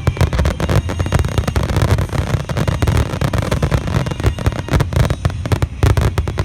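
Large aerial fireworks in a dense finale barrage: many shells bursting in quick succession, sharp bangs and crackles overlapping on a continuous low rumble of booms.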